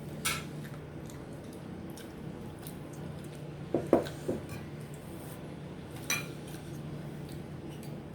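Dishes clinking and knocking during a meal: a sharp clink near the start, three quick dull knocks about four seconds in, and another clink about six seconds in, over a steady low hum.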